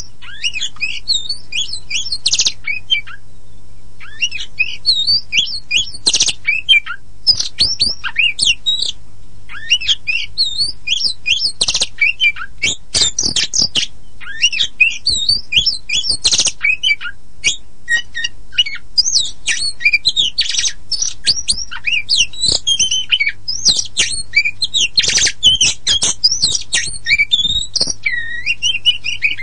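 Oriental magpie-robin (kacer poci) singing a rapid, nearly unbroken song of varied whistles, glides and harsh scratchy notes, with a short pause about three seconds in. A low steady hum runs underneath.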